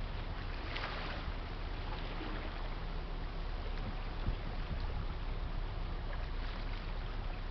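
Steady low rumble of a large Great Lakes freighter under way on the river, over a constant noise of water and air, with a brief rushing sound about a second in.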